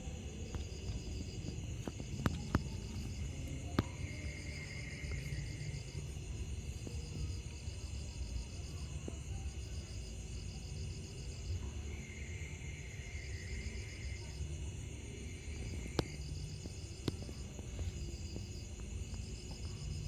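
Night insects chirping in regular pulsed trains, roughly one train every second and a half, with a lower chirp joining twice. A steady low rumble runs underneath, and a few sharp clicks break in.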